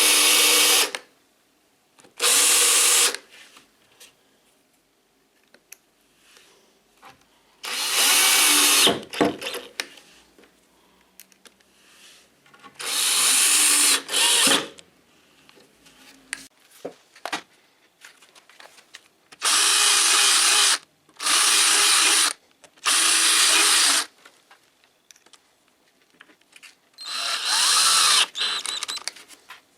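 Electric drill-driver running in about eight short bursts, each one to two seconds long with pauses between them, as self-tapping screws are driven into plywood and the screw holes are drilled and widened.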